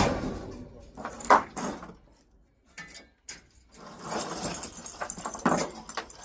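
Scrap metal items being handled and dropped while unloading a truck: a sharp clank, a second loud clank about a second later, then a few seconds of rattling and knocking.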